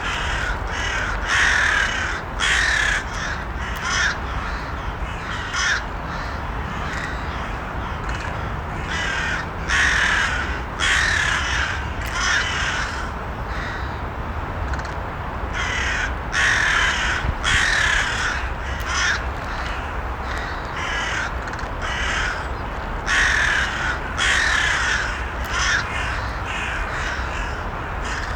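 Crows cawing repeatedly, in bunches of several harsh caws every few seconds, over a steady low background noise.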